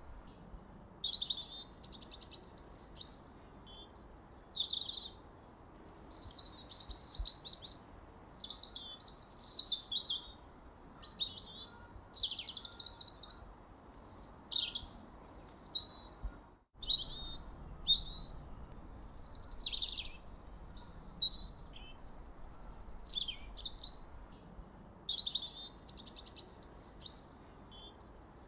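Birdsong: a run of quick, high chirping phrases, some sweeping down in pitch, repeating with short pauses over a faint low hiss. Everything cuts out for a moment just past the middle.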